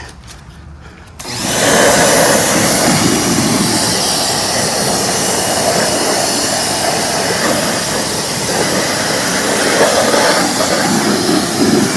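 Ryobi 1800 PSI electric pressure washer switching on about a second in and then running steadily, a loud hiss of motor, pump and high-pressure spray.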